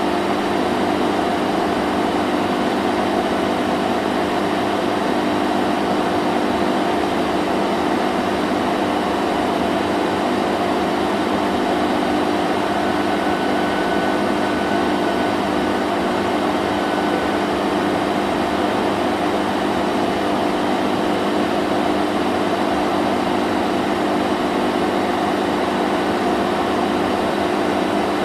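Vacuum cleaner running steadily: an even motor hum with a constant rushing of air, with no change in pitch or level.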